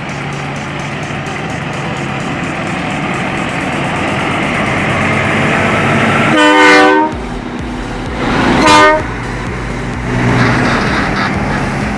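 A diesel tractor-trailer engine grows louder, then the truck's air horn gives two short blasts about two seconds apart. The engine swells again near the end.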